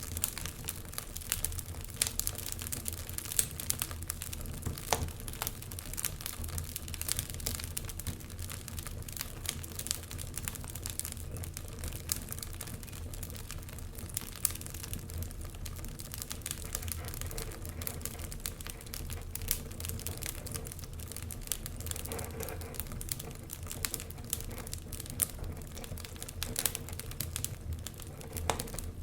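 Fireplace fire crackling with quick, irregular sharp pops over a steady low rumble.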